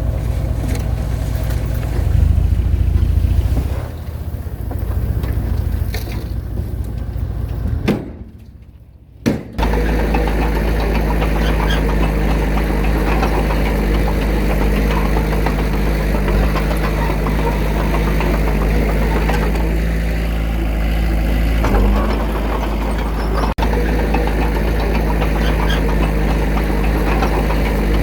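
Diesel engine of earthmoving machinery running, uneven at first; about eight seconds in the sound drops away briefly, then the engine runs steadily at an even pitch.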